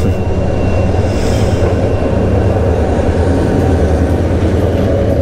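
A train rolling past close by: a loud, steady rumble of wheels and cars on the rails, with a brief higher hiss about a second in.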